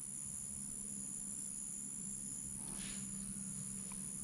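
Steady high-pitched insect chorus running without a break, with a faint low hum under it and a brief soft rustle about three seconds in.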